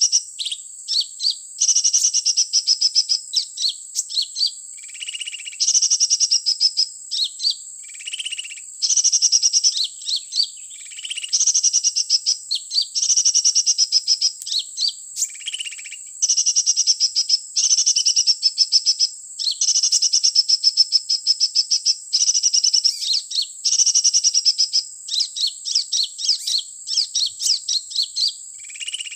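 Recorded 'kolibri' (sunbird) song played from an MP3 player as a lure: bursts of fast, high twittering phrases about a second long, repeated with short gaps, over a steady high-pitched tone.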